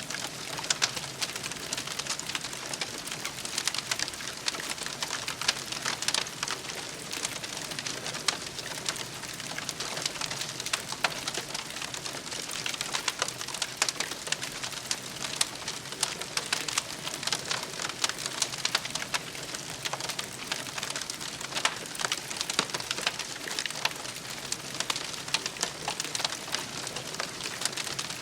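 Campfire crackling: a dense, continuous run of small, irregular pops and snaps over a steady hiss.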